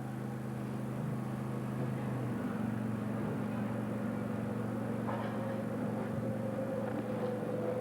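Vehicle engine running steadily, with a low even hum whose pitch steps slightly about two and a half seconds in.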